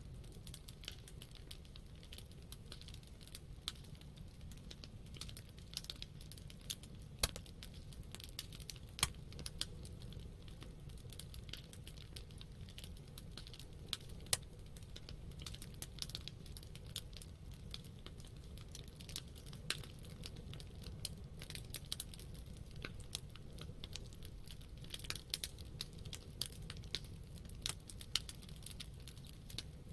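Campfire of burning wood crackling, irregular sharp pops and snaps over a low steady rumble of the flames.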